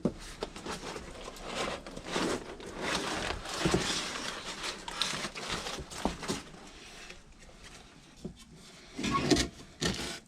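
Irregular clatter, scraping and sharp knocks of hand tools and metal parts being handled while work is done on a furnace's inducer motor.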